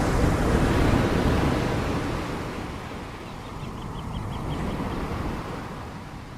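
Ocean waves breaking: a wave crashes and washes in near the start, then recedes, with a smaller wave surging about four seconds in. A short run of faint, high chirps sounds in the middle.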